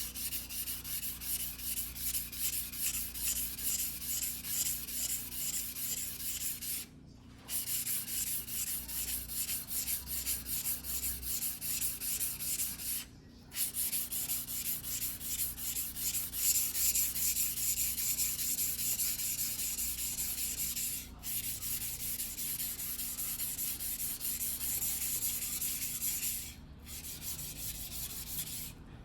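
Single-bevel Japanese fugu sashimi knife (fuguhiki) blade being stroked back and forth on a wet whetstone by hand, a quick, regular gritty scraping with a few short pauses.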